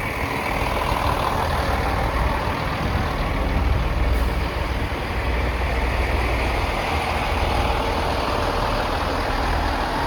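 Class 165 diesel multiple unit's underfloor diesel engines running, a steady low rumble.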